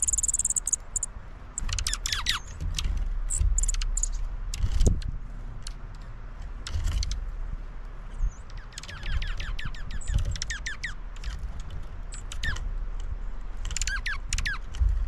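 Small birds singing: bursts of quick falling chirps, several in a row, repeated a few times over a low rumble.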